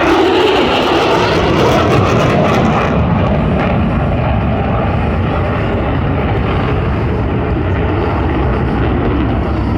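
Airplane engine noise, loud and steady, with a sharp hiss in the first three seconds that then falls away, leaving a steady rumble.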